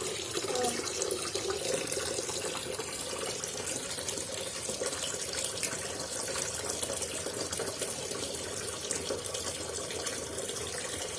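Water running and churning steadily, as in a sink or basin, with a steady hum underneath.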